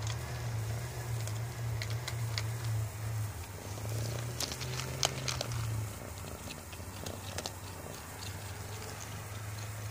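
Cats eating dry food from a shared bowl: scattered crunching clicks, thickest about four to five seconds in, over a low purring drone that pulses at first and turns steady near the end.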